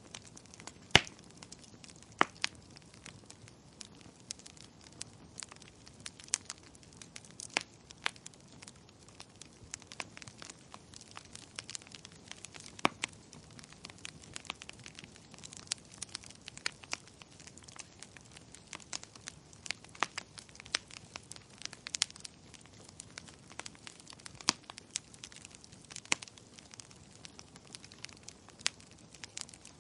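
Wood fire in a fireplace crackling, with irregular sharp pops and snaps over a soft steady hiss; the loudest pop comes about a second in.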